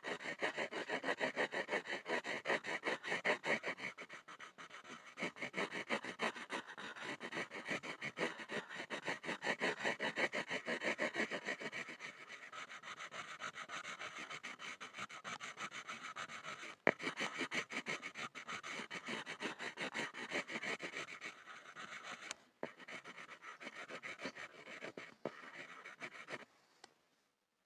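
Pencil scribbling on a board in quick back-and-forth strokes, with one sharp tap partway through. The scratching stops about a second before the end.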